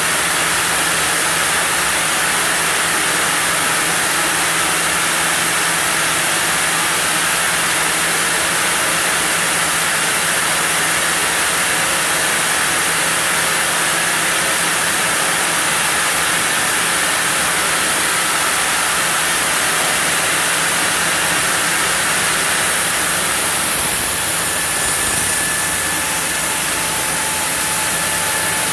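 Sawmill saw running steadily as it cuts through a block of zelkova timber, a loud, even noise with a constant low hum.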